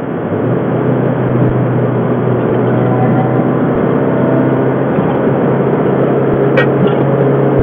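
Peugeot 309 GTI 16V's 1.9-litre 16-valve four-cylinder engine running at steady, moderate revs, with one sharp click about six and a half seconds in.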